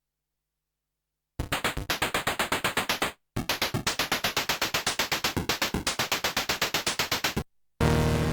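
Arturia MicroFreak synthesizer playing a preset: a fast run of short, evenly repeated notes, about six a second, starting after a second and a half of silence and breaking off briefly once. Near the end a new preset enters with a loud sustained chord.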